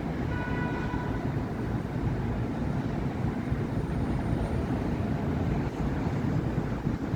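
Steady rumble of city avenue traffic, cars and buses running past. Just after the start a brief pitched tone sounds for under a second.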